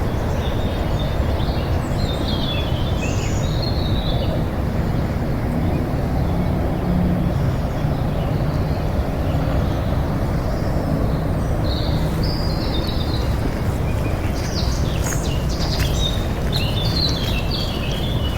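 Small birds chirping in short bursts, a few seconds in and again near the end, over a steady low rumble of outdoor background noise. A few light clicks come near the end.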